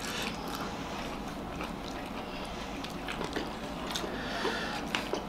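Chewing and mouth sounds of people eating egg momo dumplings, with a few light clicks of forks against plates.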